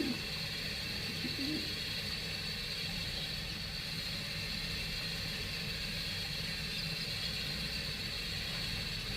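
Steady background hum and hiss, with a faint pigeon coo at the start and again about a second and a half in.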